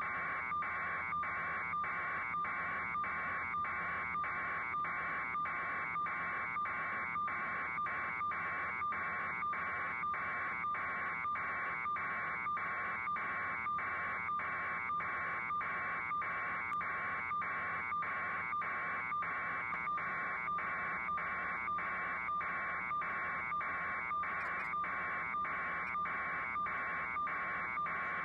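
Rapid electronic beeping, a little over two even pulses a second, keeping the same rhythm and pitch throughout.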